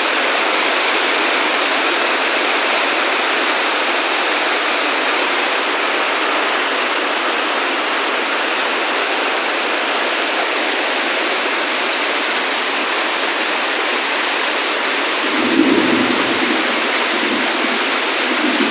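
Steady, heavy rain falling, an even rushing hiss. About three-quarters of the way through, a low rumble swells in a few pulses under it.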